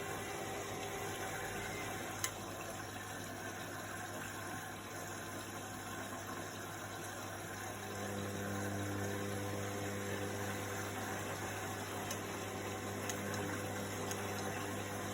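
Washing machine running with a steady low motor hum and a haze of water noise. A sharp click comes about two seconds in. About eight seconds in, the motor's hum takes on several steady tones and grows slightly louder.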